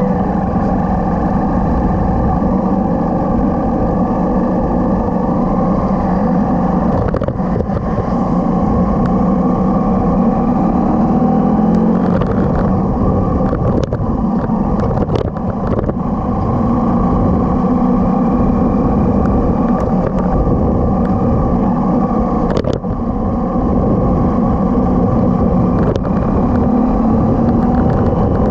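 Motorcycle engine running steadily under way, its pitch shifting a little now and then.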